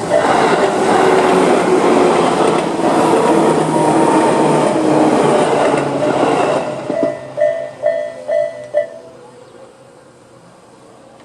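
Tobu 10030 series electric train passing through a level crossing, its loud run of wheel and motor noise lasting about six and a half seconds. As it clears, the crossing's electronic warning bell (Tobu 'sound A') is heard again, dinging a few more times about twice a second, then stops near nine seconds in as the alarm ends.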